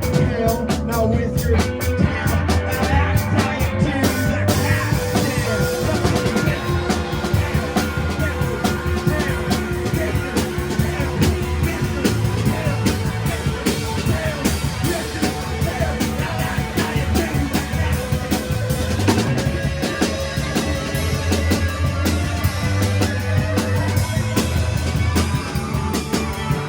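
Live rock band playing an instrumental passage: busy drum kit with rimshots and bass drum under electric guitar and bass.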